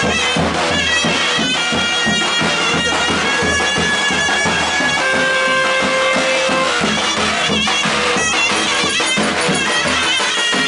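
Loud traditional folk wedding music: a shrill reed wind instrument plays long held and ornamented notes over a steadily beaten drum.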